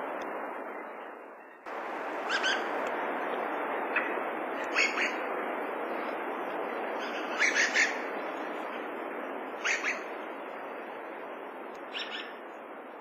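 Dusky thrush giving short, sharp calls, singly and in quick runs of two or three, over a steady background hiss. The hiss fades and then cuts back in abruptly just before two seconds in.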